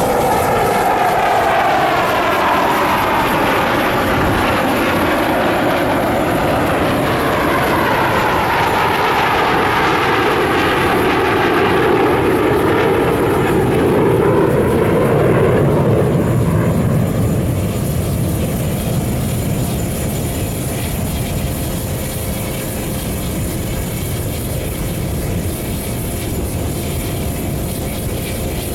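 Russian Knights Su-30SM fighter jets flying past in their display: jet engine noise with a sweeping, phasing rise and fall in pitch as they pass, loudest a little past the middle, then dying away to a distant rumble.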